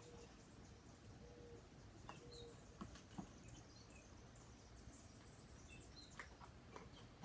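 Homemade borax-activated slime being kneaded by hand, giving faint scattered sticky clicks and squelches, with one sharp loud knock at the very end.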